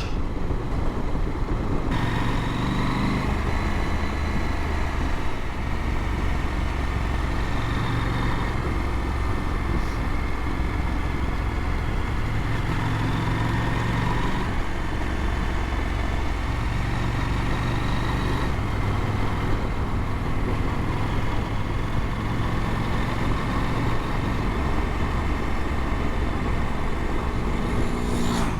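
KTM adventure motorcycle's engine running under way, its low note shifting every few seconds with throttle and gear changes, over a steady rush of wind and road noise.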